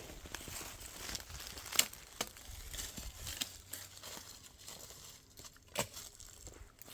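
Dry twigs and leaves crackling and snapping as they are handled or trodden on: irregular small crackles, with a sharper snap about two seconds in and another near six seconds.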